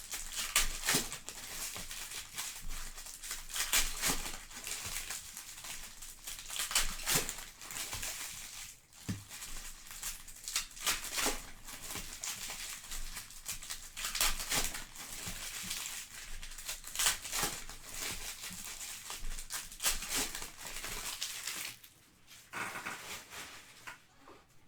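Plastic trading-card wrapping crinkling and being torn, with many sharp crackles, stopping about 22 seconds in.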